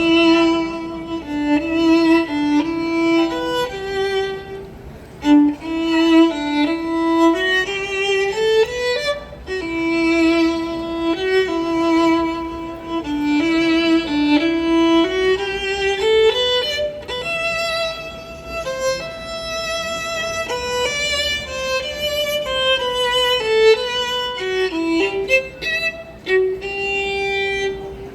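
Violin playing a waltz melody, one line of notes rising and falling in phrases.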